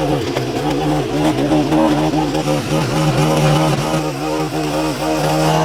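An engine running steadily, its pitch wavering up and down.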